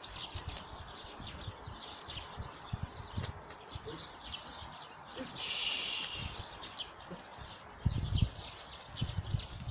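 Birds chirping continuously in short high calls. About five and a half seconds in there is a brief hissing rustle, and near the end there are low thumps.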